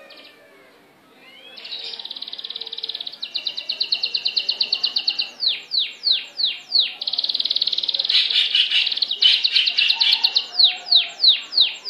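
A songbird singing, starting about a second and a half in: long, fast trills alternating with runs of quick down-sweeping notes, about four or five a second.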